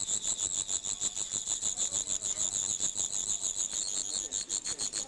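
Large crickets chirring together loudly: a continuous, rapid pulsing trill, high-pitched, with no pause.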